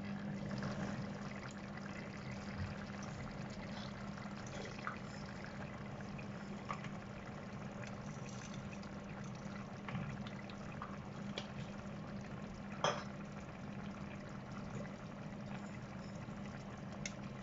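Mutton curry simmering in a pan: soft bubbling with scattered small pops, one sharper pop near the end, over a steady low hum.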